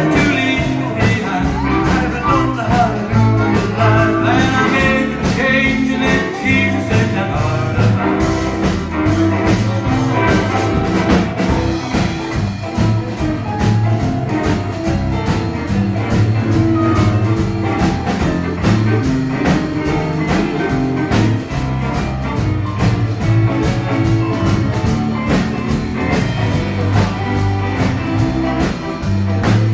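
Live band playing a blues-rock song, with guitar over bass and a drum kit keeping a steady beat.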